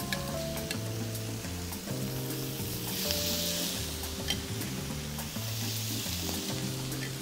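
Chicken breast fillets sizzling in olive oil on a hot ridged grill pan: a steady hiss with scattered small pops. The sizzle swells about three seconds in as another fillet goes onto the hot pan. Background music with steady bass notes plays underneath.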